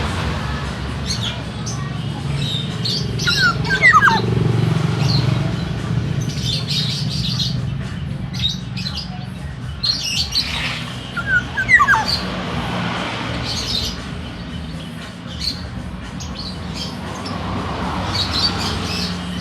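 Black-naped oriole (burung podang) singing: quick whistled notes sliding down in pitch, about four seconds in and again about twelve seconds in, with high chirps throughout over a steady low hum.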